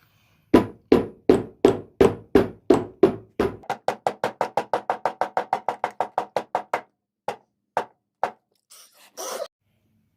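A series of sharp, hollow knocks on a hard object, about two or three a second at first and quickening to about five a second. After that come a few spaced knocks, then a short rustle near the end.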